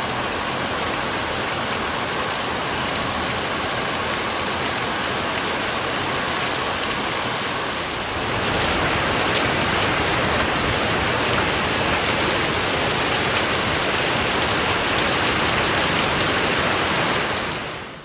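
Heavy rain falling steadily, a dense hiss and patter that gets louder about eight seconds in and falls away near the end.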